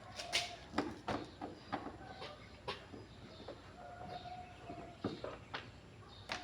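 About a dozen irregular light knocks and clicks, with faint bird calls behind them.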